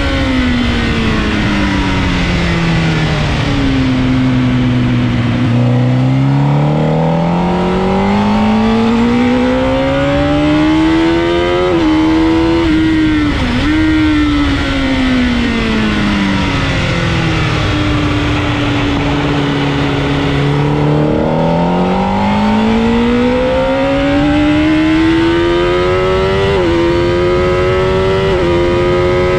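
Sportbike engine at full track pace, heard from onboard. The revs fall twice as the bike brakes and changes down for corners, then climb back through the gears under hard acceleration, with a quick step in pitch at each gear change.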